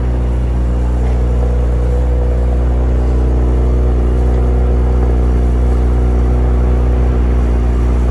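Audi S5's V6 TFSI engine idling steadily just after a cold start, heard from outside the car, with a deep, even exhaust note.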